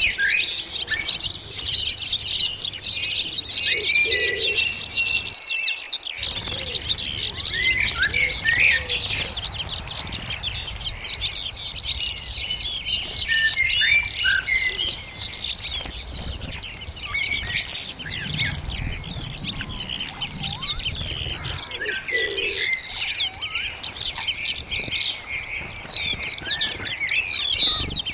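Many small songbirds chirping and twittering together in a dense, continuous chorus of short, quick calls.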